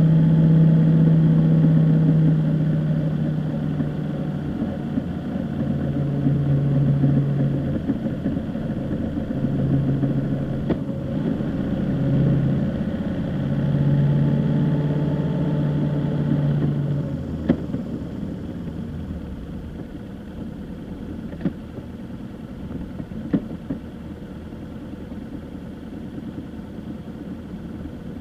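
A vehicle's engine running, a steady drone that wavers slightly in pitch. About two-thirds of the way through, a click is followed by a drop to a quieter, even hum, with a couple of faint clicks after.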